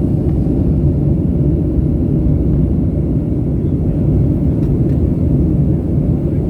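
Steady low rumble of a passenger airliner's engines heard inside the cabin.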